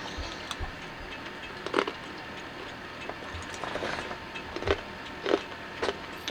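A few short, sharp knocks and clicks over a steady low background, the loudest about two seconds in and three more near the end.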